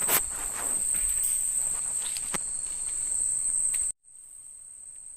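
Night insects in the rainforest giving a steady, high-pitched drone, with a few light knocks early on. About four seconds in the sound cuts out abruptly and comes back noticeably quieter.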